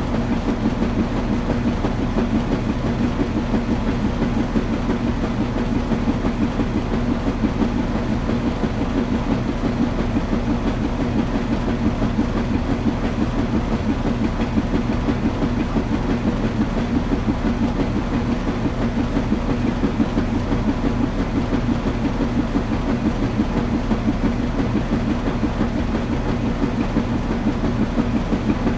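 Washing machine running steadily: a continuous low hum over an even rumble, unchanging throughout.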